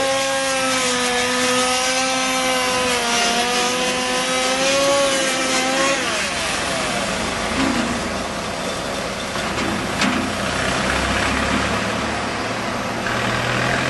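Wood chipper's engine running while it warms up after a key start. For about six seconds it holds a steady, slightly wavering note, then it settles into a rougher, lower running sound, with one sharp knock about ten seconds in.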